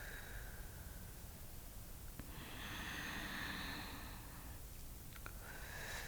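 Slow, soft human breathing close to the microphone: one long breath about halfway through and another starting near the end, with a couple of faint mouth clicks.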